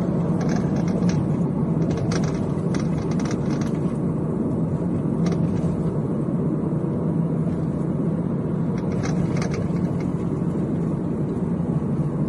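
Steering column of a car with electric power steering clicking in short clusters over the steady rumble of the car driving on a rough road. The speaker puts the clicking down to the plastic gear that couples the electric power-steering motor to the steering column.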